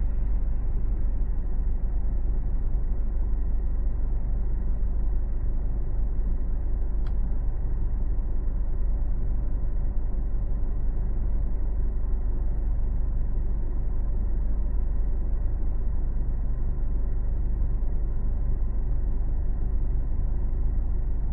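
Car driving: a steady low road and engine rumble, with one faint click about seven seconds in.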